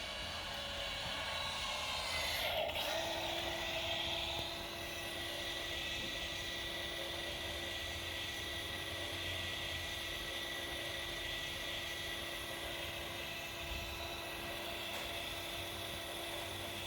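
Ducati Multistrada 1260S's electronically adjusted Skyhook suspension self-adjusting at key-on: a steady electric motor whine that sweeps in pitch about two and a half seconds in, then holds a steady tone.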